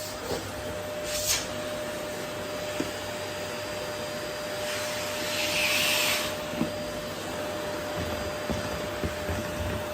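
Vacuum cleaner running steadily with a constant mid-pitched whine. Its hiss swells for about a second and a half midway, and there are a few light knocks.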